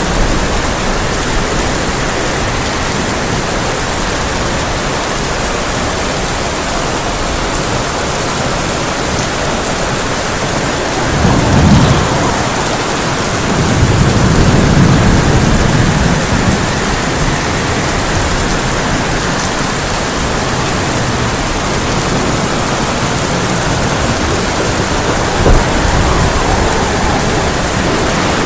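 Heavy rain drumming steadily on a tin roof, with thunder: a low rumble swells about eleven seconds in and runs into a longer rumble of about three seconds, and a short sharp clap comes near the end.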